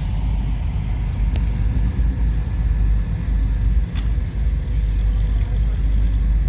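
Steady low rumble of classic car engines idling, with two light clicks partway through.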